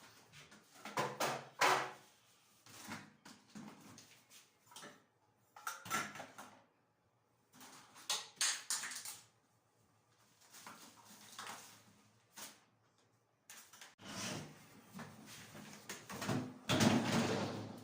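Bathroom-cleaning handling noises: irregular short knocks, scrapes and rubbing with quiet pauses between them, and a longer stretch of rough rubbing near the end.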